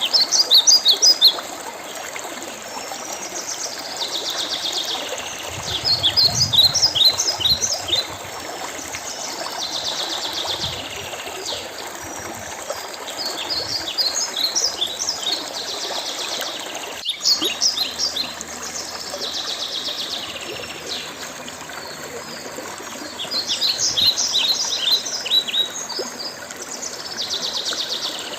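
Songbird singing the same phrase over and over, about every six seconds: a fast high trill followed by a quick run of sharp whistled notes, over the steady sound of a running stream. One sharp click about two-thirds of the way through.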